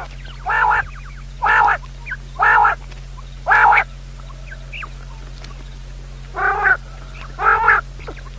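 A bird giving short, harsh, pitched calls about once a second: four in a row, a pause of about two seconds, then two more.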